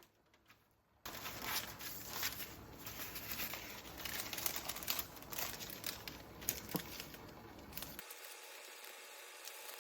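Plastic packaging crinkling as it is handled, starting suddenly about a second in, with many small crackles.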